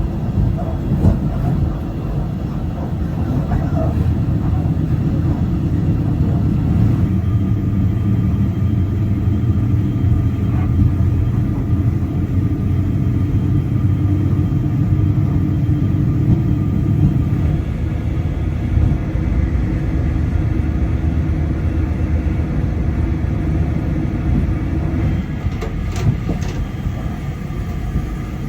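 Steady running rumble of a Talgo passenger train heard from inside the carriage, with a low hum that fades out near the end.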